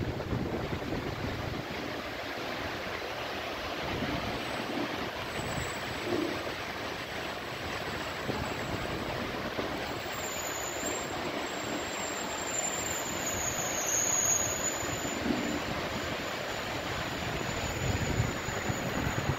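Heavy rain pouring steadily, a dense even hiss. Gusts of wind buffet the microphone with a low rumble at the start and again near the end.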